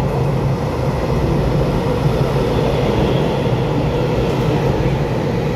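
Taiwan Railway EMU3000 electric multiple unit passing close alongside an underground station platform: a steady loud rumble of wheels and motors, with a faint high whine over it midway.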